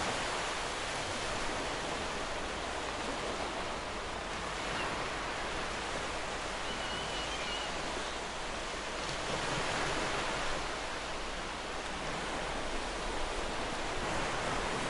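Sea waves washing on a shore: a continuous hiss of surf that swells and eases about every four to five seconds.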